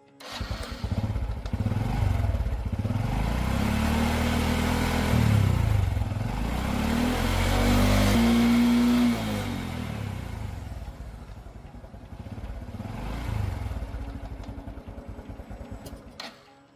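Restored 1980s Honda motorcycle's engine starting abruptly, then running and being revved, its pitch rising and falling. It drops to a lower level after about nine seconds and cuts off just before the end.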